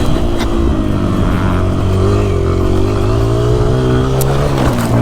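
Motocross dirt bike engine running under throttle, its pitch rising and falling as the rider opens and closes the throttle. It drops sharply near the end and then climbs again. A few sharp knocks are heard, about half a second in and twice near the end.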